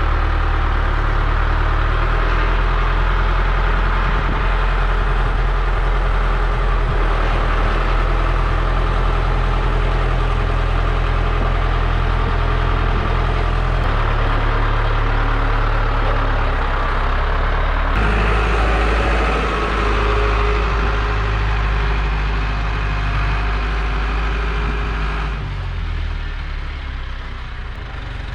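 Heavy vehicle engine running steadily. Its note changes abruptly about halfway through and again about two-thirds of the way in. Near the end it shifts again and grows a little quieter.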